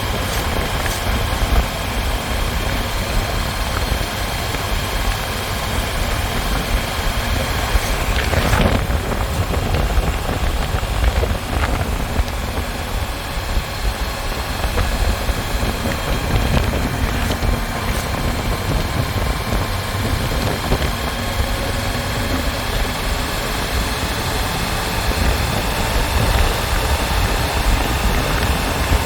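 Motorcycle engine running steadily on the move, with wind rumbling over the microphone.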